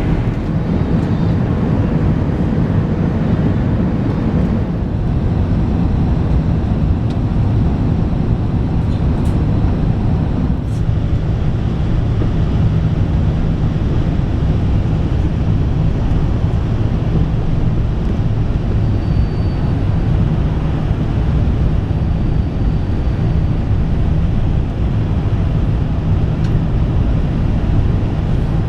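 Steady low rumble of an Airbus A380 heard from inside the passenger cabin: engine and airflow noise.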